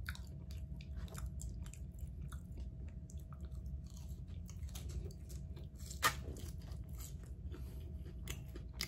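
Close-up chewing of chicken wings with many small wet mouth clicks, and sucking sauce off the fingers, over a steady low hum. One sharper click comes about six seconds in.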